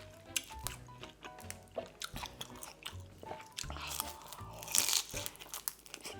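Close-up crunching and chewing of crispy fried beef large intestine (daechang), several crisp bites with a louder, noisier crunch a little before the end.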